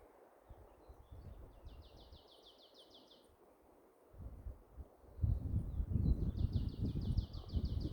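A small bird singing a fast trill of about ten quick repeated notes, twice: once about a second and a half in and again near the end. Wind rumbles on the microphone, louder from about five seconds in, and is the loudest sound.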